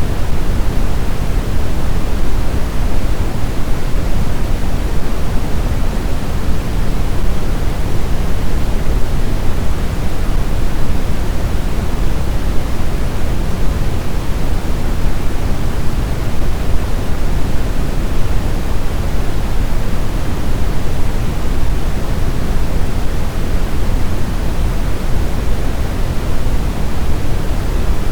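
Blizzard wind noise: a steady, dense rush, heaviest in the low end, with no gusts or howls standing out.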